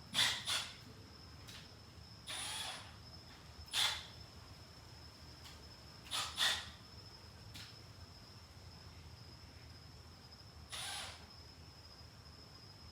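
Small sharp clicks and snaps, with two short scraping rustles, as driver bits are handled and pulled from a plastic bit case. A faint steady high-pitched tone runs underneath.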